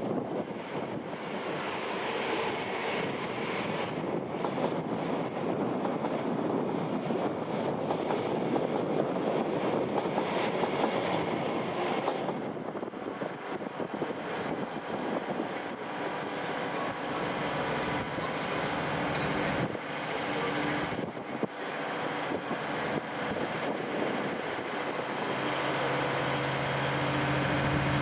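Train moving at a station platform: a continuous rumble and rail noise, with a low steady engine hum coming in near the end.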